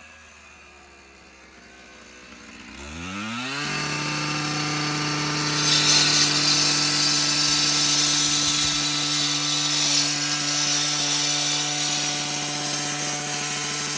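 Hilti concrete saw slowing and quiet at first, then revving up quickly to a steady high whine about three seconds in. From about five and a half seconds it runs on loud with a harsh grinding hiss over the whine as the blade cuts into concrete.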